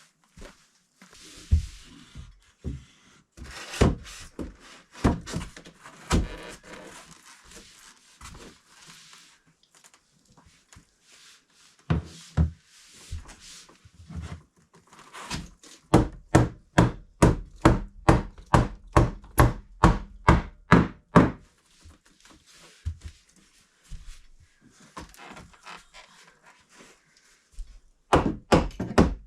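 Hammer driving nails into a wooden 2x2 board, a quick, even run of strikes about three a second in the second half and again near the end. Earlier come scattered knocks of wood being handled.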